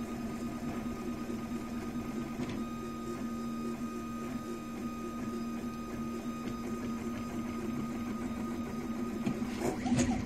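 RepRap Prusa Mendel 3D printer running under G-code control. Its stepper motors give a steady humming tone as the axes move, and there is a louder stretch of changing motor noise near the end.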